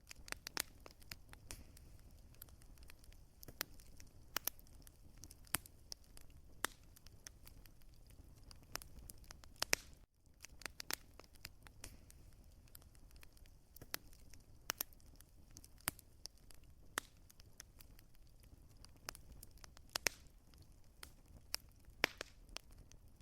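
Wood fire crackling: irregular sharp pops and snaps over a low, steady rumble, with a brief drop to silence about ten seconds in.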